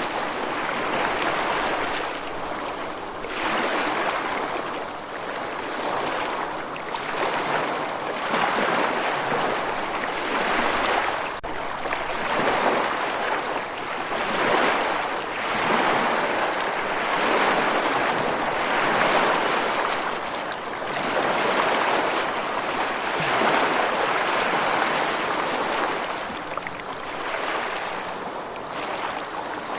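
Rushing water, a steady wash that swells and ebbs every two to three seconds.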